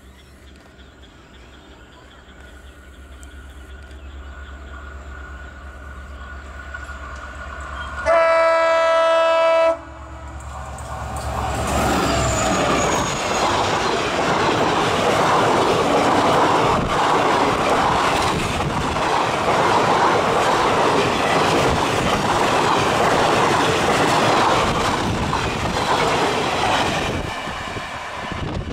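WDP4D diesel locomotive approaching with its engine drone growing louder, then one long blast of its multi-tone horn about eight seconds in. The locomotive and its passenger coaches then pass close at speed, wheels clattering over the rail joints for about a quarter of a minute before the noise dies away as the train recedes.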